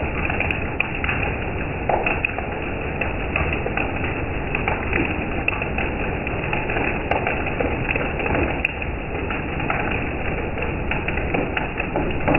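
Rain falling steadily: a dense even hiss with many small irregular taps of drops.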